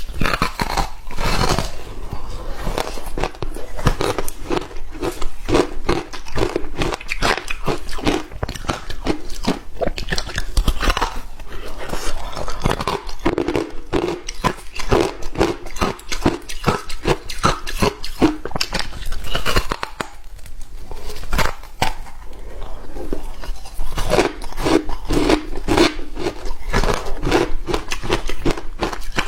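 Hard ice being bitten and chewed close to the microphone: dense, irregular crunching and cracking.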